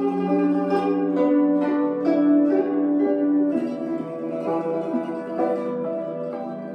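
Guzheng (Chinese zither) playing a melody in plucked notes that ring on and overlap.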